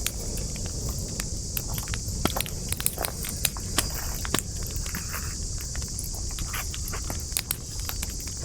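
Campfire of burning wood crackling, with irregular sharp pops of varying loudness over a steady high-pitched hiss and a low rumble.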